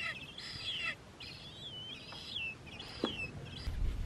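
Birds calling from the marsh: a run of short, high calls that waver and fall in pitch, repeating roughly every second, with a single brief click about three seconds in.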